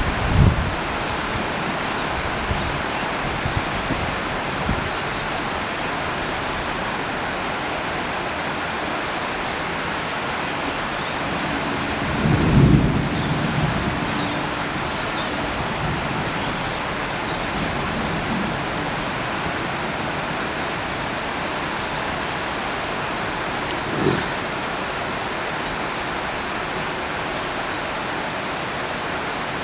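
Summer thunderstorm: steady rain with low rumbles of thunder, a short one just after the start, the longest and loudest about twelve seconds in, and a brief one about twenty-four seconds in.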